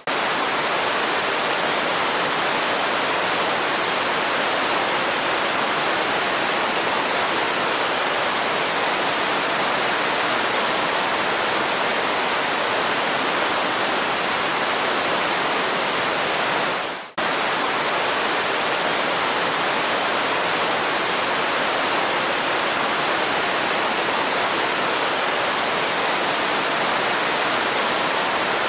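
Waterfall rushing steadily, an even hiss of falling water. About seventeen seconds in it briefly fades away and then cuts back in abruptly.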